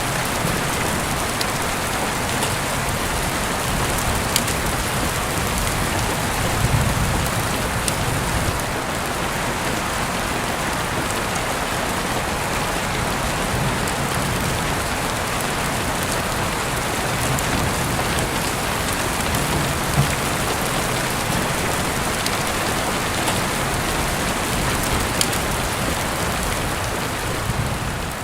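Heavy rain falling steadily, with scattered sharp drop ticks over a dense hiss and an uneven low rumble underneath. It begins to fade out near the end.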